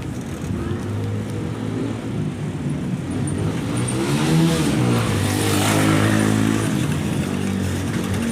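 Motor vehicle engine running close by in road traffic. About halfway through, its pitch rises and then falls as it passes, with a rush of noise that peaks as it goes by.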